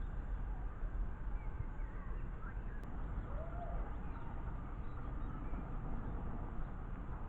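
Steady low rumble of a miniature railway train running, with birds chirping faintly now and then.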